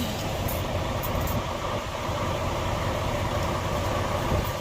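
Steady low rumble of an idling diesel semi-truck engine.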